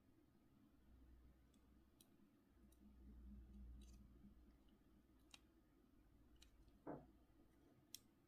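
Faint, scattered small clicks and taps over a soft low rumble, the sharpest tap about seven seconds in: small phone parts and tools being handled while a mobile phone is taken apart.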